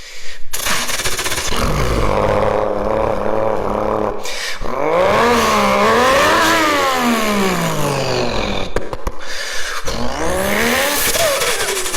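Single-turbo Toyota Supra's straight-six engine revving: its pitch climbs and falls several times, with two short breaks between pulls, over a loud rushing noise.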